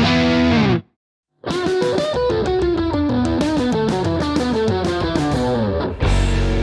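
Electric guitar with Leosounds Fireball pickups played through an AC30-style crunch amp boosted by a BSM 71/73 treble booster. A chord rings out and stops short under a second in, followed by a brief silence. Then comes a run of crunchy single-note lines, and near the end a new full chord is struck and sustains.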